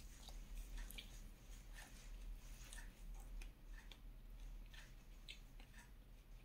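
Faint, irregular chewing and mouth clicks from someone eating dosa with fried banana.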